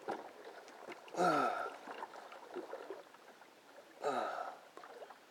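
A man's strained grunts of effort, two short groans falling in pitch, about a second in and again near the end, as he hauls against a big hooked mahi-mahi.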